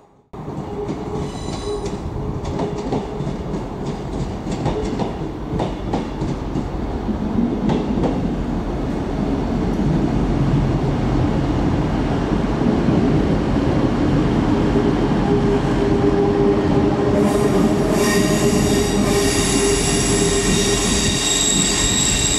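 A train moving slowly through the station: a steady rumble slowly growing louder, with high-pitched wheel squeal setting in near the end.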